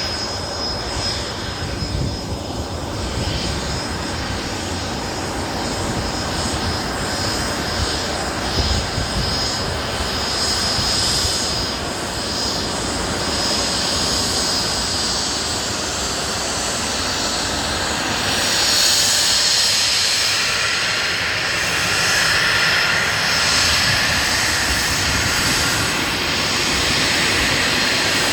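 Embraer Phenom 300 business jet's twin Pratt & Whitney Canada PW535E turbofans running, with a steady high whine over a broad rush. About two-thirds of the way through the sound grows louder and fuller and the whine fades.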